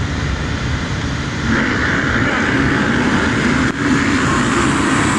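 A pack of motocross bikes at full throttle together, a dense wall of engine noise that swells about a second and a half in.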